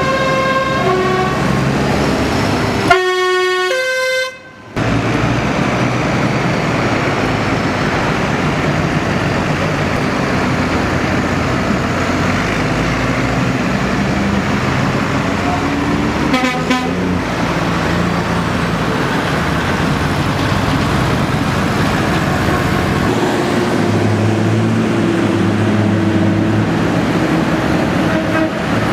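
Tractor engines running steadily as a procession of tractors passes, with horns tooting now and then. The sound cuts out briefly about four seconds in.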